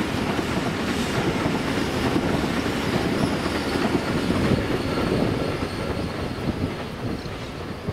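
Electric train passing: a dense rush of wheels on rail with a faint, steady high whine, easing off over the last couple of seconds.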